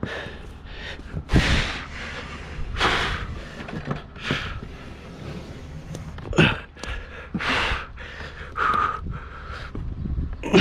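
A man breathing hard and winded, with loud, rough breaths about every one and a half seconds after the strain of hauling a heavy load, and a few dull handling thumps.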